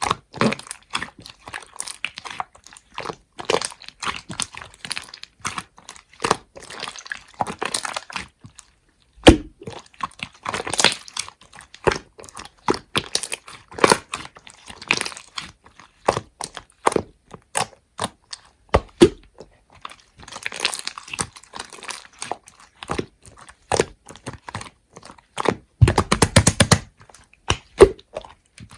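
Slime being pressed, stretched and folded by hand, giving dense irregular crackling, popping and crunching with short pauses between handfuls and a louder burst of pops near the end.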